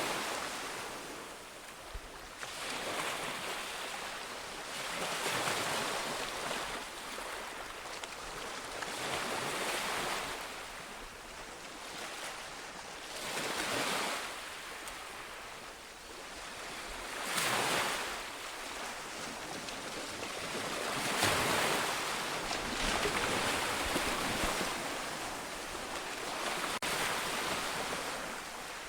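Ocean waves breaking on a shore, a steady hiss of surf that swells with each wave every three to four seconds and then falls back.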